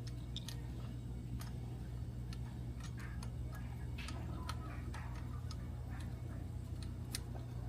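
Scattered light clicks and taps of hand work on the bolts of a motorcycle's heel-toe shifter, coming irregularly, over a steady low hum.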